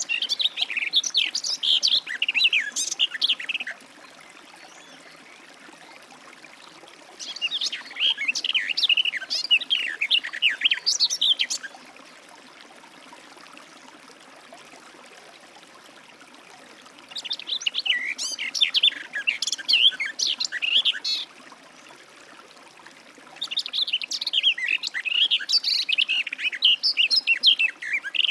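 Garden warbler singing: four bouts of fast, rambling warble, each about four seconds long, with pauses of a few seconds between them; the last bout runs on past the end.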